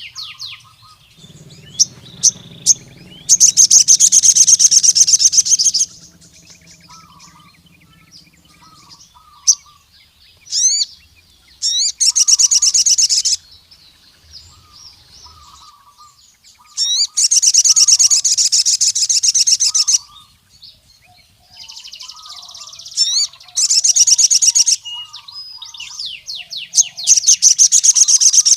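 Male crimson sunbird (sogon) singing a territorial challenge to rival males: loud, high, very rapid trilling phrases of two to three seconds each, repeated five times with short gaps. Between the phrases come softer, lower chirps.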